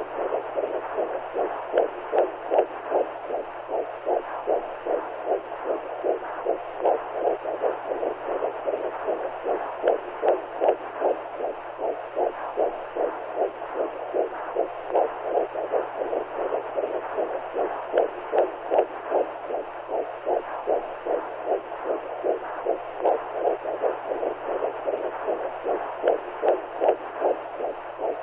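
Womb sound for soothing a newborn: rhythmic whooshing pulses, like a heartbeat and blood flow heard from inside the mother's body, roughly twice a second over a steady hiss with a low hum beneath.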